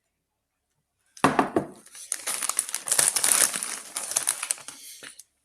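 Crisp packet crinkling and rustling as it is handled, starting about a second in and lasting about four seconds.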